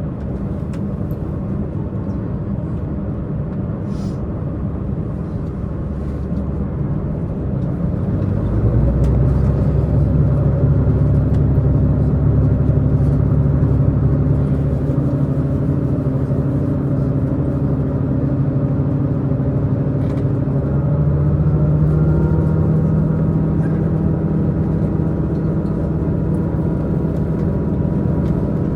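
Tze-Chiang diesel multiple unit running at speed, heard from inside the carriage: its diesel engine drone mixes with wheel and rail rumble. About eight seconds in the engine note grows louder and heavier, and it edges slightly higher in pitch around twenty seconds in.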